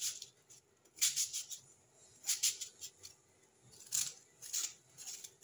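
Short, crisp scraping and cutting noises in irregular clusters, a few every second, from food being prepared by hand in a kitchen.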